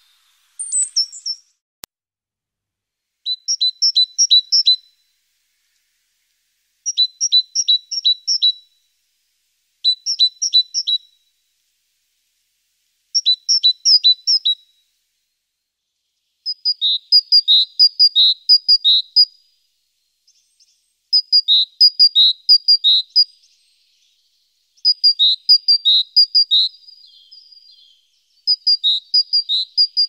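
A songbird singing short, repeated phrases: quick runs of five or six high notes, one run every few seconds, turning about halfway through into a run of two-part high-low notes.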